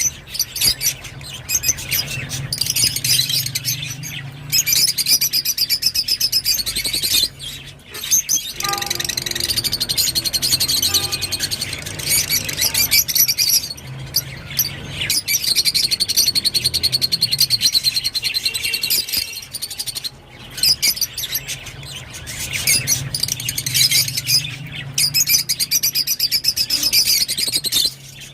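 Rosy-faced lovebird chattering song: long runs of rapid, high chirps and twitters with brief breaks between them. A low steady hum runs underneath.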